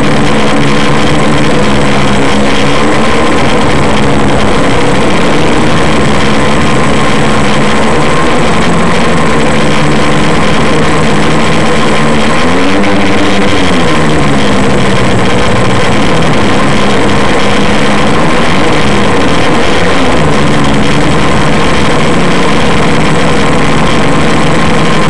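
Quadcopter's electric motors and propellers, loud and steady, heard close up over rushing noise. The pitch rises and falls together about halfway through as the throttle changes.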